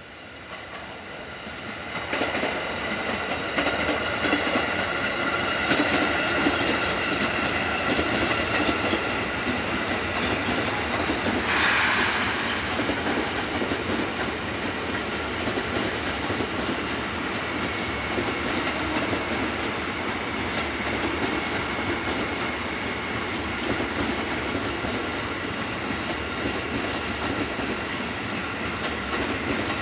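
JR 205 series electric commuter train approaching and running past, its wheels clattering over the rail joints. The sound swells about two seconds in, with high steady tones over the next several seconds and a brief hissing burst about twelve seconds in, then settles into a steady rumble as the cars go by.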